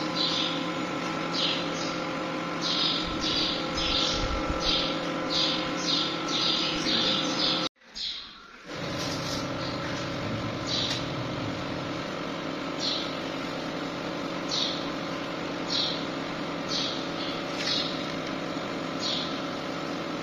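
Small birds chirping repeatedly, short bright chirps one or two a second, over a steady background hum; the sound cuts out for about a second some eight seconds in.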